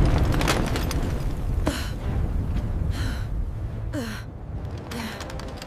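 Deep rumble of a volcanic eruption sound effect, loudest at the start and slowly fading, with several short breathless gasps.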